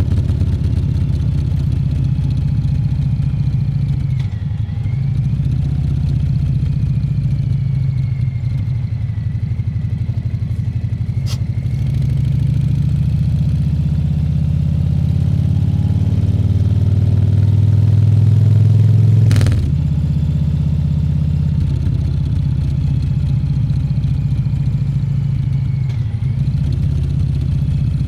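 Harley-Davidson Fat Bob 114's Milwaukee-Eight 114 V-twin engine running under way. It grows louder from about twelve seconds in, then drops back suddenly with a sharp click about two-thirds of the way through.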